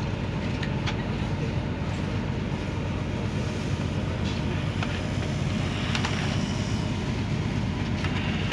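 Steady low rumble inside a passenger train carriage, with a few faint light clicks about one, four and six seconds in.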